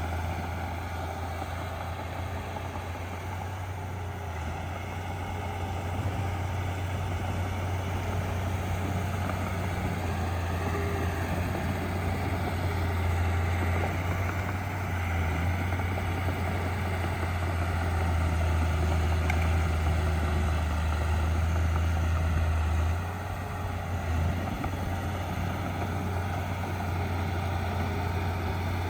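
Heavy diesel engine of earthmoving machinery running steadily with a low drone, easing off briefly about three-quarters of the way through and then picking up again.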